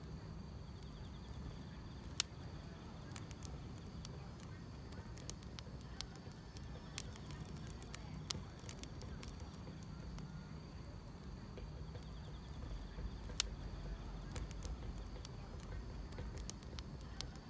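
Wood fire crackling, with irregular sharp pops over a low steady rumble, while insects in the grass trill faintly and steadily in the background.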